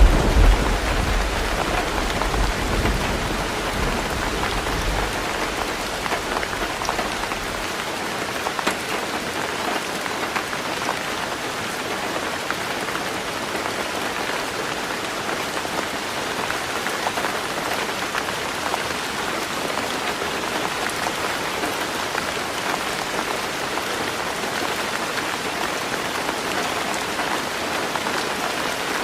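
Heavy rain falling steadily on a tin roof, a dense even patter. A low thunder rumble at the start dies away within the first several seconds.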